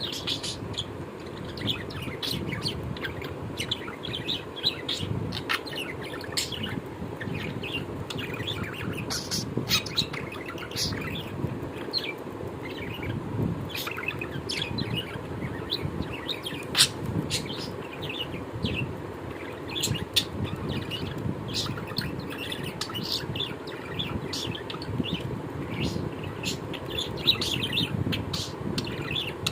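Birds chirping continuously: many short, sharp, high chirps in quick succession, over a steady low background rumble.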